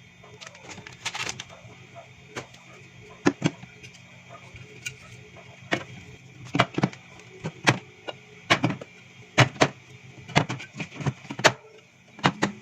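Items being set down and arranged during restocking of a mini fridge: irregular sharp clacks and knocks, coming thicker in the second half, over a steady hum.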